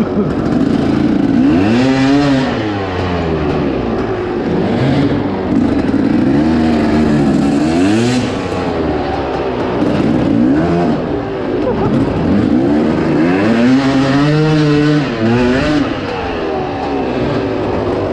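Dirt bike engine revving up and down over and over as it is ridden, the pitch climbing and dropping every few seconds.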